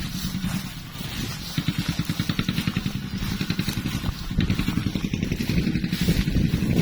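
Tractor diesel engine running with an even, rapid beat, getting louder about four seconds in.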